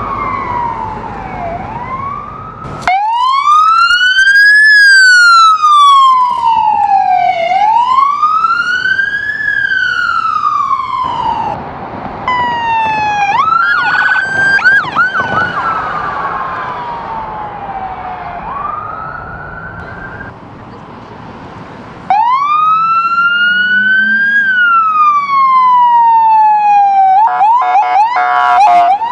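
Electronic emergency-vehicle sirens on a code 3 response, mostly a slow rising and falling wail, with a fast yelp briefly in the middle and again near the end. The siren sound changes abruptly several times as one vehicle's siren gives way to another's.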